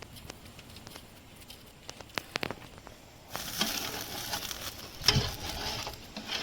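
Cooking in a pan: a few light clicks, then a hiss of sizzling that starts suddenly about three seconds in, with one sharp knock a little before the end.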